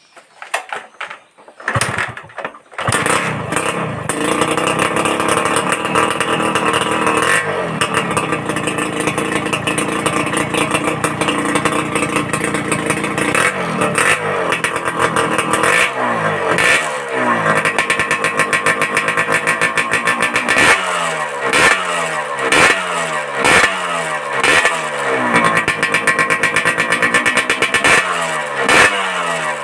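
Suzuki Satria 120cc single-cylinder two-stroke engine with a racing exhaust not yet packed with glasswool. It starts about two seconds in, runs steadily, then is blipped repeatedly, each rev falling away, about once a second. The exhaust note is tinny, "like cans", with too little crisp ring.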